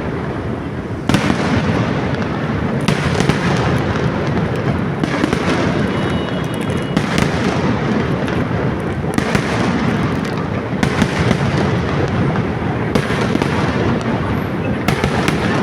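Fireworks display, a continuous rumble and crackle of exploding shells with sharp bangs about every one to two seconds.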